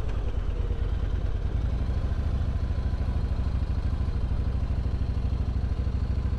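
Motorcycle engine running steadily, with an even low pulse and no change in speed.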